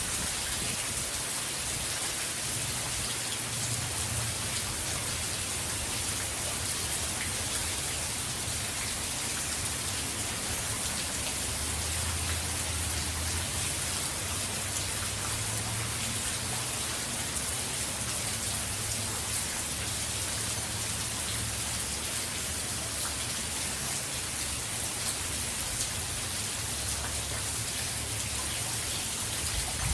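Heavy rain from Hurricane Ian falling steadily as an even hiss, with a low rumble underneath.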